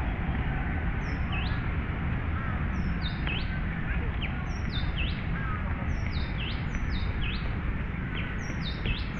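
Birds chirping again and again: short high notes that drop sharply in pitch, one or two a second, over a steady low rumble.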